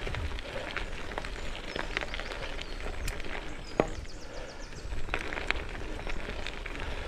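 Goodyear Connector gravel bike tyres rolling and crunching over gravel: a steady crackle of small stone clicks, with one sharper tick about four seconds in. Wind rumbles on the microphone underneath.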